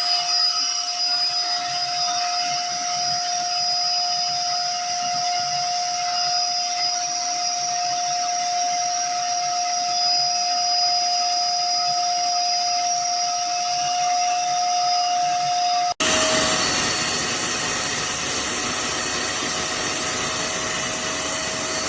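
Wet/dry shop vacuum motor running steadily, a rushing air noise with a steady whine. About two-thirds of the way through it cuts abruptly to another take of the vacuum running, brighter and hissier with a slightly lower whine.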